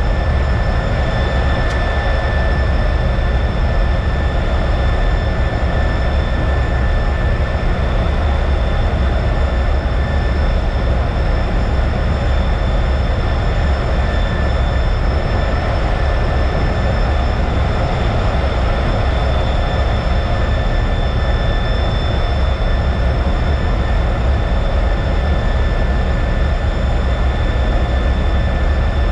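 T-33 jet trainer's turbojet heard from inside the cockpit: a steady, loud rush of engine and air noise with a constant high-pitched turbine whine, unchanging throughout.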